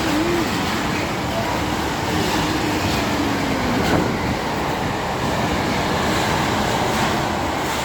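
Train hauled by a Class 66 diesel locomotive running through a station, a steady rumble of wheels on rail, with a low tone that slides down in pitch about three to four seconds in.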